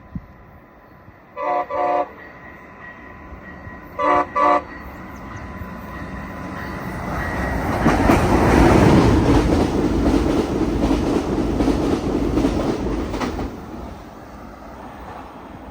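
A Siemens Charger passenger locomotive sounds its horn in two pairs of short blasts. The passenger train then passes, its wheel-and-rail noise swelling to a peak about eight seconds in and fading away.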